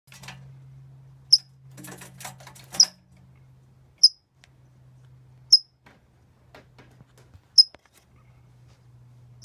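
A small bird, which the owner takes for some kind of finch, chirping while caught in a wire live trap: about six short, high, sharp chirps, one every one to two seconds, with a brief clatter of clicks around two seconds in. A steady low hum runs underneath.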